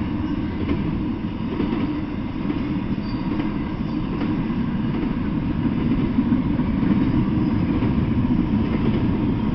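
Double-stack intermodal freight train rolling past at speed: a steady low rumble of steel wheels on rails, with a few faint clicks.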